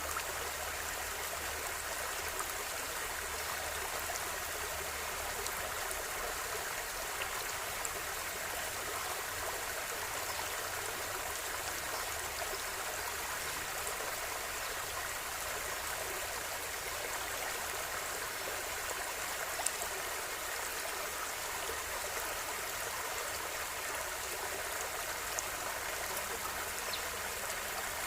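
A small river or stream flowing steadily over rocks, a constant rushing and trickling with occasional faint droplet splashes.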